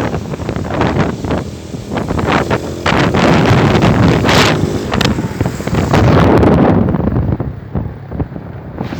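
Heavy wind buffeting the microphone of a moving vehicle, a rough gusting roar that eases about two-thirds of the way through.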